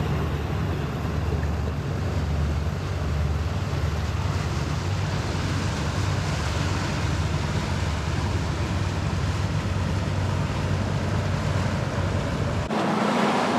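Steady wind rumbling on the microphone over the rush of water and waves around a moving boat, with a deep low rumble throughout and a change in the sound near the end.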